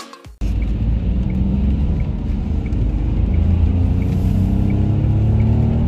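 Dacia Duster's TCe 100 three-cylinder turbo petrol/LPG engine pulling the car along, a low drone whose note climbs slowly as it accelerates, over road rumble. It starts abruptly about half a second in as music cuts off.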